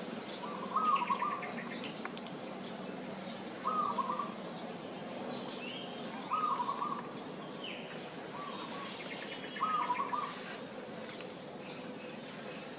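Birds calling in the surrounding forest: one repeats a short call, about five times at roughly three-second intervals, while other birds chirp higher and more faintly.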